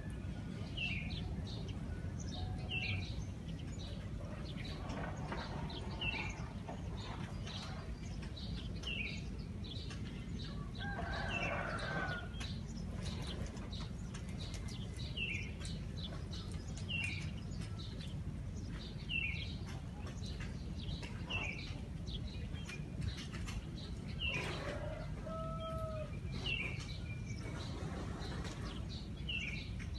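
Small birds chirping, a short falling high note about once a second, over a steady low background rumble. A longer, lower call stands out about a third of the way through, and another in the second half.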